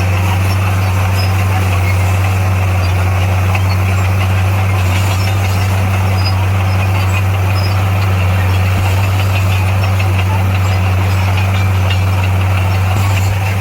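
Diesel engine of a heavy earthmoving machine running steadily under load, a constant low drone with no change in pitch.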